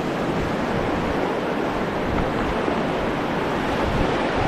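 Steady rush of river water around a moving raft, with wind buffeting the microphone.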